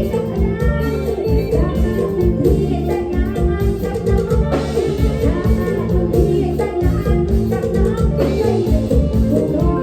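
Live Isan band playing a toei, a fast mor lam dance tune: electric guitar and bass over a steady drum beat.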